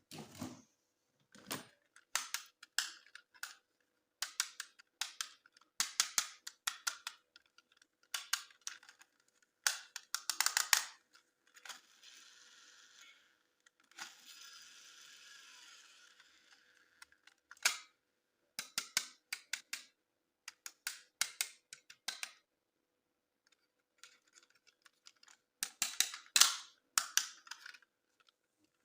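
Plastic toy packaging and toy parts being handled: clusters of sharp clicks and crackles, with two longer stretches of steady rustling around the middle.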